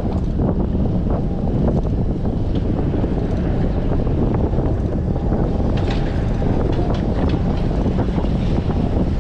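Strong wind buffeting the microphone of an action camera on a moving bicycle: a steady low rumble, with faint small ticks now and then.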